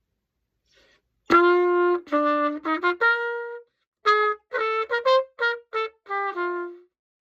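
An old pocket cornet, freshly cleaned, oiled and reassembled, is played in a short phrase starting about a second in. A long opening note is followed by a run of short, separated notes, and the phrase ends on a held note.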